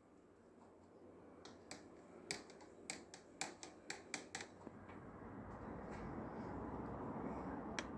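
A quick, irregular run of about ten light clicks or taps, followed by a low background noise that swells steadily toward the end.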